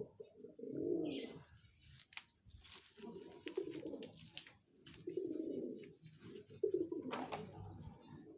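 Domestic pigeons cooing over and over, several low warbling coos a few seconds apart, with a couple of brief sharp rustles or clicks in between.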